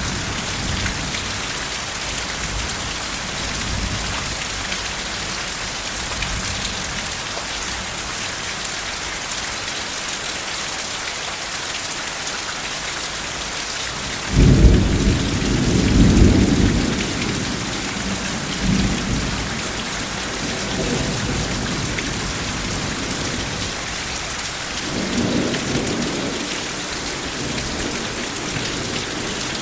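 Steady, fairly heavy rain hissing. About halfway through, a sudden deep rumble of thunder lasts a few seconds, and a softer rumble follows near the end.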